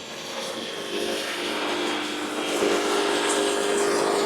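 Band sawmill running, its machinery giving a steady hum over a wide rushing noise that gets louder about a second in.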